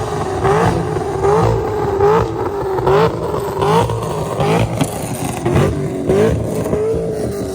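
A car engine revving hard over and over, its pitch rising and dropping back about every two-thirds of a second.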